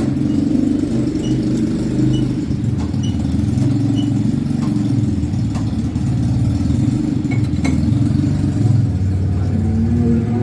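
An engine running steadily at an even speed, with a few faint light clicks over it.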